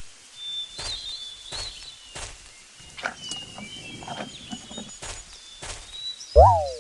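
Outdoor ambience of faint rustling and ticking with small birds chirping. A sharp click at the start, and a short, loud animal-like call that rises and falls near the end.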